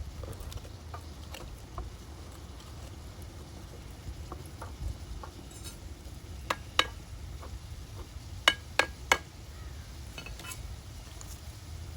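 A metal utensil knocking and clinking against a cooking pot: a few faint ticks, then two sharp ringing knocks past the middle and three more close together about two seconds later, over a steady low rumble.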